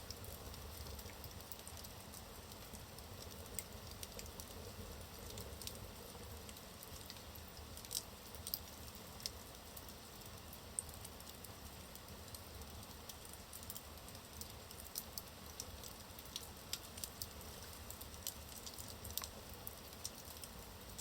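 Wood fire burning in a fireplace: a low steady hiss of the flames with scattered small crackles and pops from the logs.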